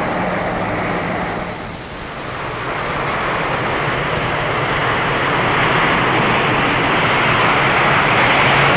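Lockheed C-130 Hercules' four Allison T56 turboprop engines and propellers powering up for takeoff: a steady low propeller drone under a rushing noise that dips briefly about two seconds in, then grows steadily louder.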